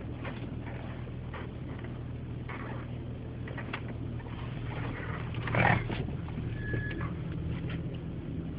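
2001 Audi S4's 2.7-litre twin-turbo V6 running with a steady low hum. A brief louder noise rises over it about five and a half seconds in.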